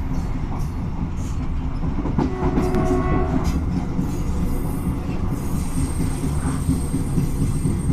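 Train running on the rails: a steady low rumble with wheels clacking over the track. A thin high squeal comes in about five seconds in.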